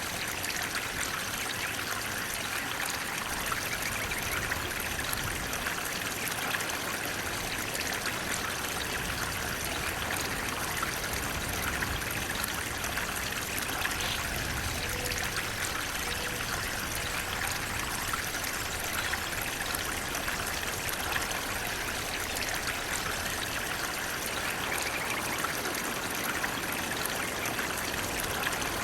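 Water flowing and splashing steadily, a stream or small waterfall.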